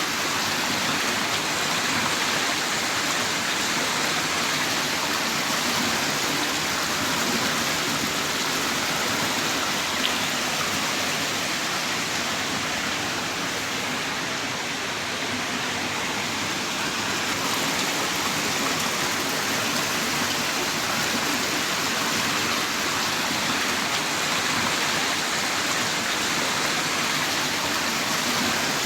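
Heavy rain falling steadily in a dense, even hiss of drops, with no thunder.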